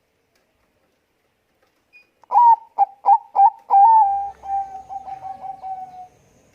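Zebra dove (Bangkok perkutut) cooing. A run of about five strong coos starts some two seconds in, then trails into a quicker, fading string of short notes.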